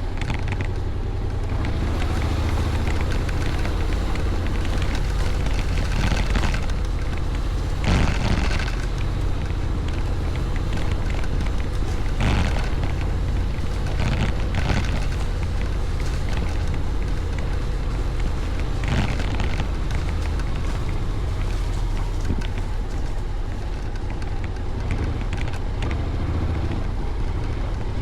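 Wind buffeting the rider's microphone on a moving motorcycle, a Honda Forza 750 maxi-scooter, heard as a steady low rumble with engine and road noise under it. Several brief louder gusts or swells come through.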